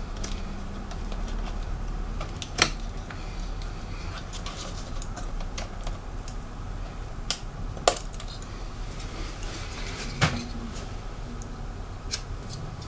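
Irregular small clicks and taps of hand tools and plastic and metal parts as a laptop is taken apart, with three louder sharp clicks spread through, over a steady low hum.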